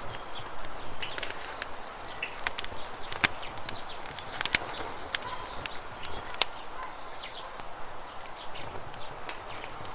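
Campfire crackling, with irregular sharp pops, over a steady rush of running river water, with short bird chirps here and there.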